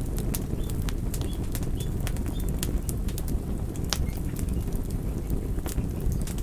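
Campfire burning: a steady low rumble of flames with irregular sharp crackles and pops from the burning wood, one stronger pop about four seconds in.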